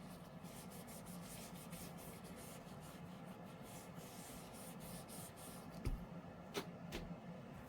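Faint scraping and rubbing of a stir stick in a cup of mixing epoxy resin, with a few light knocks about six to seven seconds in.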